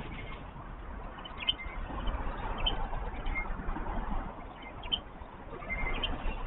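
Several short, high bird chirps scattered over a steady hum of distant city traffic.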